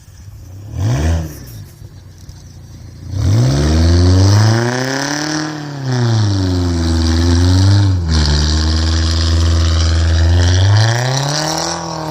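Toyota Tacoma pickup's engine on a 5-inch straight-pipe exhaust, very loud. It is blipped once about a second in, then revved up from about three seconds and held at high revs for several seconds, with brief dips, and revved up and back down again near the end.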